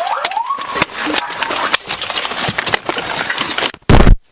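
A police siren wails briefly at the start over loud engine and road noise scattered with clicks and knocks. Near the end there is a short, very loud burst, then the sound cuts off abruptly.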